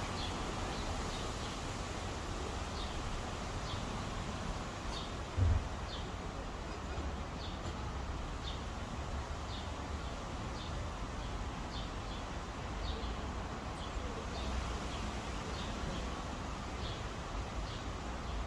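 Small birds chirping: short high chirps repeating steadily, a little more than once a second, over a steady outdoor hiss and low rumble. A brief low thump about five seconds in.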